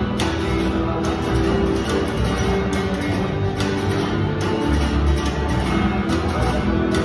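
Guitar playing an instrumental passage of the song, with a deep bass underneath and a regular accent a little faster than once a second.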